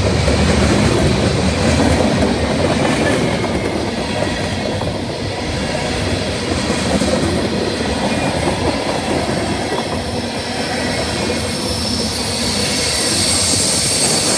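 Freight train cars rolling past at close range: boxcars, a tank car and container flatcars, their steel wheels running steadily over the rails. A high wheel squeal grows louder over the last few seconds.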